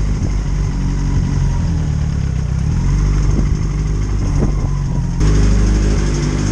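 Yamaha R1 sportbike's inline-four engine running steadily while ridden in first gear, which it is stuck in because the clutch lever has jammed. It gets louder about five seconds in.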